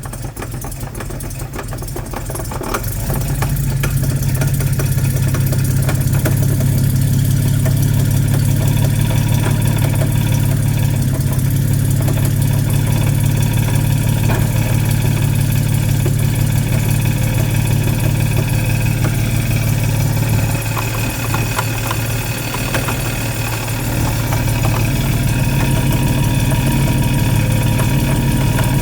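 Jaguar XK150's engine running with its Borg-Warner DG 250 automatic transmission in drive, a steady hum with faint higher tones over it, carrying a noise from the transmission that the owner cannot identify. It gets louder about three seconds in, eases off around twenty seconds, then comes back up.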